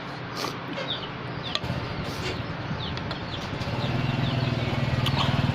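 Chickens clucking with short, repeated falling chirps. A low steady drone comes in about two-thirds of the way through.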